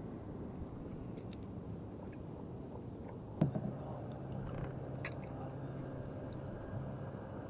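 Water noise around a small wooden fishing canoe, broken by a single sharp knock about three and a half seconds in, after which a low steady hum sets in.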